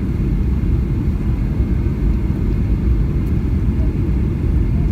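Cabin noise inside a Boeing 737-800 on approach: the steady low rumble of its CFM56-7B turbofan engines and the airflow over the fuselage.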